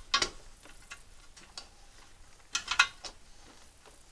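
Light plastic-and-metal clicks and taps of hands fitting the ignition coil's boot back onto a mower engine's spark plug: one click just after the start, then a quick run of three a little before three seconds in.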